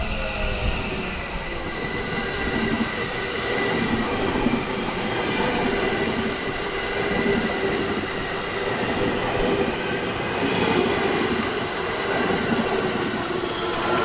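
Electric commuter train rolling slowly alongside the platform as it pulls into the station, the running noise of its cars steady throughout, with a faint steady whine over it.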